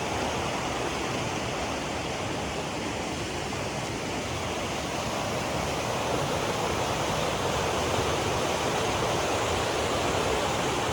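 Steady rush of flowing water, an even noise that holds level throughout.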